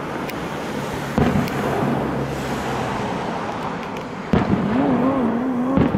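Aerial firework shells bursting far off: a sudden boom about a second in and another just past four seconds, with a rolling rumble between them.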